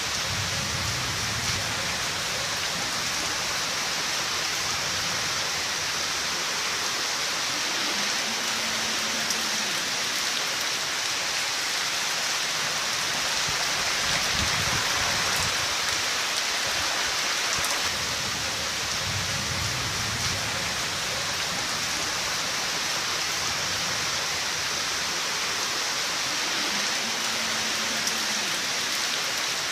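Steady, heavy rain falling, an even hiss of drops on surfaces, with a few soft low rumbles now and then.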